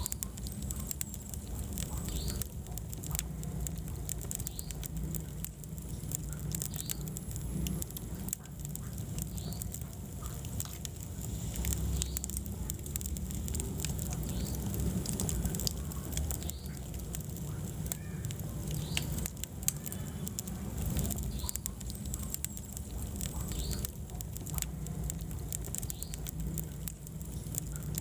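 Wood fire burning in a fireplace, crackling with many small irregular snaps and pops over a steady low rumble of the flames.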